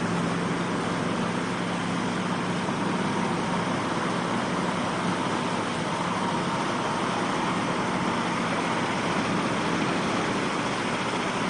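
A motor vehicle's engine running steadily under a constant rushing noise.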